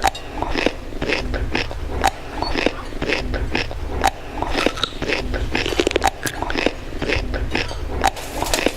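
Many quick, irregular clicks and clinks of tableware struck together, several going at once, some ringing briefly.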